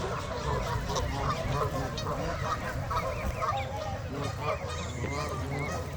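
A flock of Canada geese honking, many short calls overlapping continuously.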